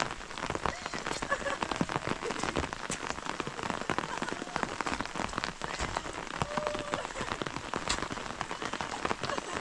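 Heavy rain falling: a dense, steady patter of drops.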